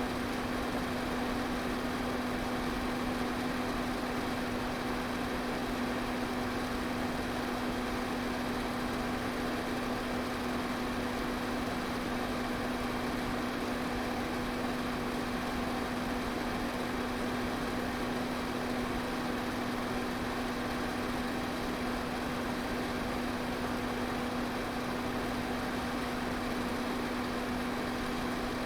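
Electric fan running steadily: an even rush of moving air over a constant low motor hum, with no change in speed.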